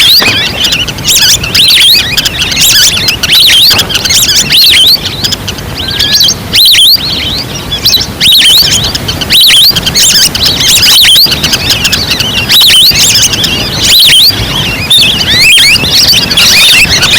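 A dense chorus of duck calls from a hunting lure recording: many short, high, hooked whistles overlapping continuously, played loud.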